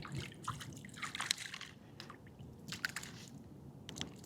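Light water splashes and drips with scattered small clicks, as a tiny fish is reeled up out of the water beside a kayak.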